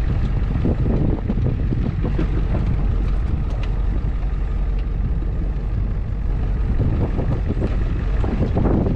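Truck driving at steady speed, a continuous low engine and road rumble heard from inside the cab.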